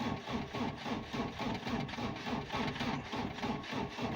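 Starter motor cranking the Cummins ISF 2.8 diesel of a GAZelle van on ether, an even rhythmic churning that does not catch and stops near the end. The engine cannot build enough fuel rail pressure to start (40 bar of the 100 needed), and the mechanic suspects the battery is running down.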